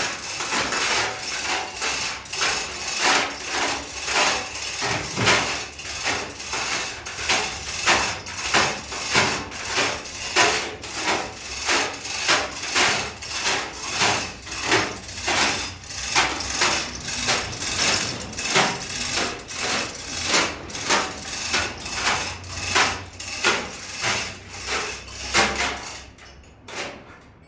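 Repeated sharp strokes of a hand tool working a truck tyre during retreading, evenly paced at about two a second, dying away near the end.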